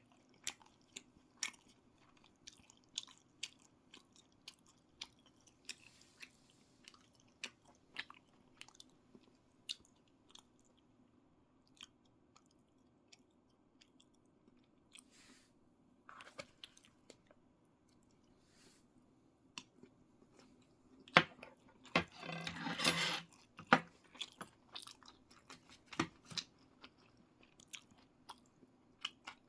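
A person chewing and biting food close to the microphone, with frequent short wet clicks and crunches over a low steady room hum. About three-quarters of the way through comes a louder rush of noise lasting a second or two.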